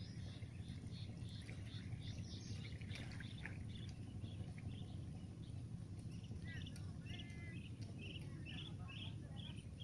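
Birds calling in trains of short, high chirps over a steady low rumble. The chirps run through the first few seconds and come again from about six seconds in.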